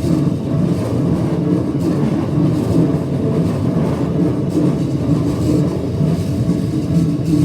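Electric commuter train rolling slowly through a tight curve, a steady low rumble of wheels on rail.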